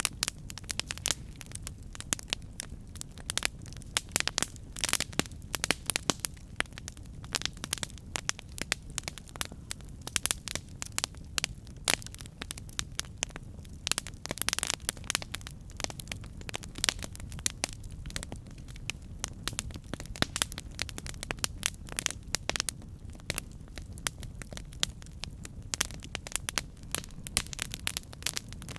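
Campfire burning, with many irregular sharp crackles and pops from the burning wood over a steady low rumble of the flames.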